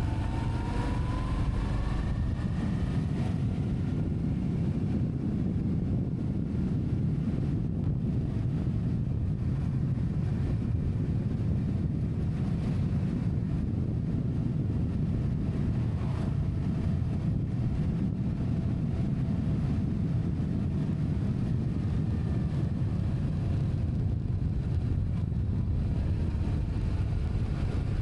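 A vehicle engine running steadily under way, with a low rumble of wind on the microphone; its pitch rises briefly in the first couple of seconds.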